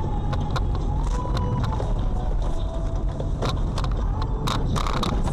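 Steady low rumble of a moving car, picked up by a dashcam, with scattered sharp clicks.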